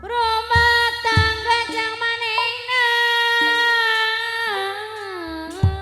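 Jaipong music: a female singer holds one long, wavering, ornamented note that slides downward near the end, over a few low kendang drum strokes and short instrumental notes.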